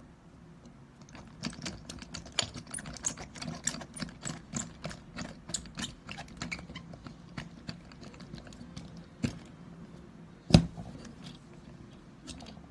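Rapid, irregular clicking and tapping of small hard parts being handled while an IQOS device is taken apart or put back together, several clicks a second for about eight seconds. One sharp, much louder click comes about ten and a half seconds in.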